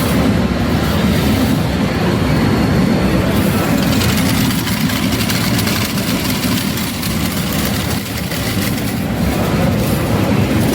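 Loud, steady din of a pachislot hall: many machines' sounds blurred into one roar, with a constant scatter of clicks.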